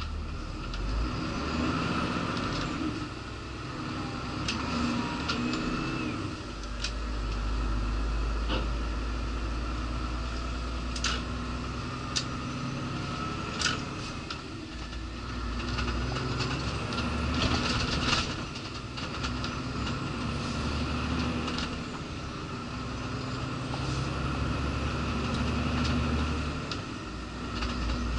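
Diesel engine of a laden articulated lorry running on the road, heard from inside the day cab. Its drone rises and falls several times as it pulls, with scattered sharp clicks and rattles from the cab.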